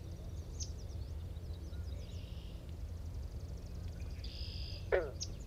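Several wild birds calling and singing: short high chirps and a few buzzy notes, over a steady low rumble. A louder, short falling call comes near the end.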